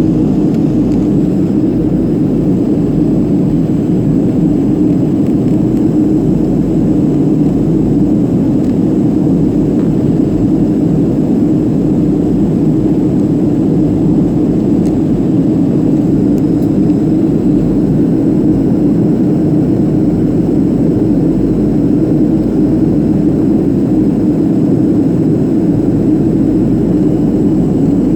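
Steady cabin noise inside a Boeing 737-500 in flight: the CFM56-3 turbofan engines and rushing airflow make a loud, even roar with no change in pitch.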